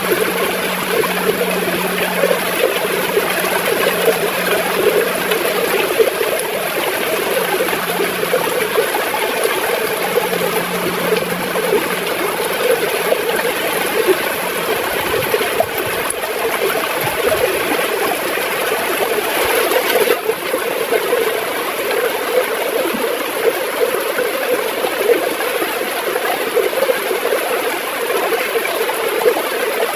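River water gurgling and flowing steadily over stones.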